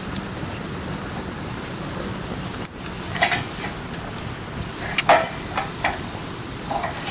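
Wood campfire burning with a steady hiss and a handful of sharp crackles and pops, the loudest about five seconds in.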